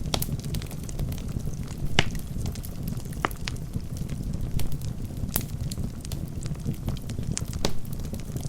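Wood fire burning in a fireplace, with a steady low rumble of the flames and irregular sharp crackles and pops from the logs; the loudest pops come about two seconds in and about five seconds in.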